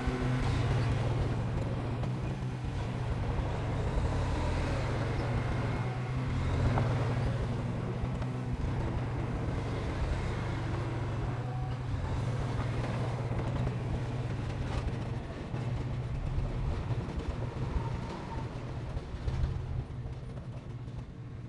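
Diesel engine of heavy earthmoving machinery running with a steady low drone, which weakens somewhat in the last few seconds.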